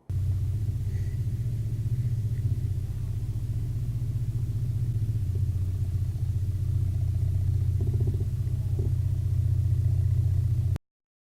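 Steady low rumble of a car on the move, with no impact or crash noise; it cuts off suddenly near the end.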